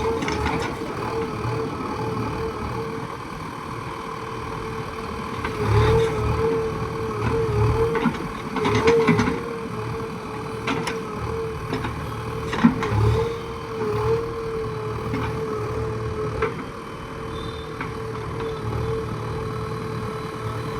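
JCB backhoe loader's diesel engine running at work, with a steady whine over it. The revs rise in several short surges as the machine takes load, and a few sharp knocks come through.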